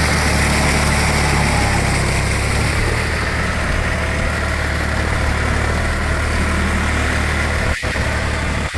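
John Deere 5045D tractor's three-cylinder diesel engine running steadily with a low, even drone. The sound dips out briefly twice near the end.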